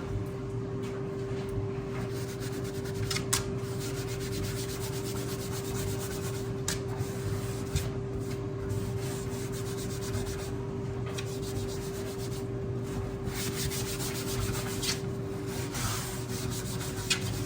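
A cloth rubbing in repeated spells of strokes, wiping a menu board clean before it is written on. A steady hum from running household appliances lies underneath.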